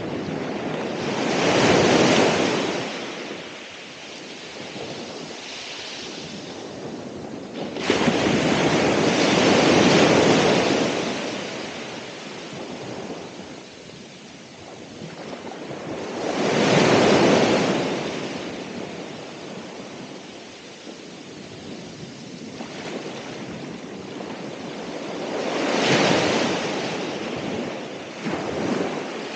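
Ocean waves breaking on the shore, four in turn about every eight seconds, each surging up and washing back down; the second sets in abruptly.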